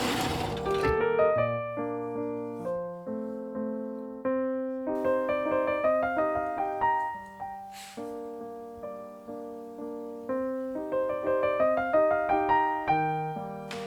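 Solo piano music: a slow melody over chords, each note ringing and fading.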